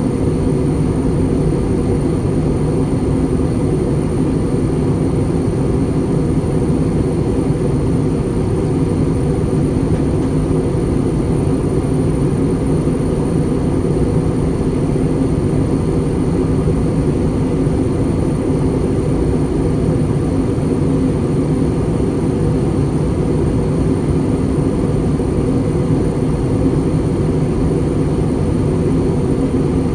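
Steady cabin noise inside an Airbus A320 airliner in flight on descent: an even, unchanging low rumble of jet engines and airflow, with a thin steady high whine above it.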